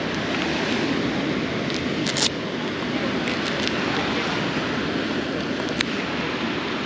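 Riding noise from a moving motorcycle: a steady rush of wind on the microphone mixed with engine and road noise. A short tick sounds about two seconds in and again near six seconds.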